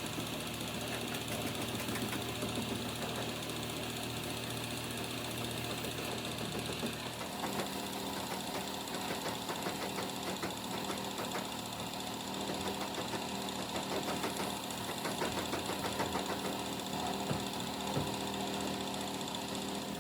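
A small engine running steadily with a fast, even ticking clatter; its tone changes about seven seconds in.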